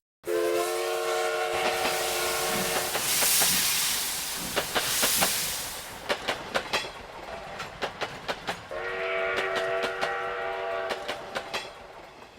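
A train passing: its horn sounds two held multi-note blasts, one at the start and one about nine seconds in, over the rush of the train and a steady clickety-clack of wheels over rail joints that fades toward the end.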